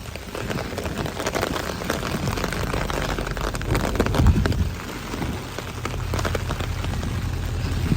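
Rain falling and pattering on surfaces, with many small drop hits. A low steady rumble comes in over the last couple of seconds.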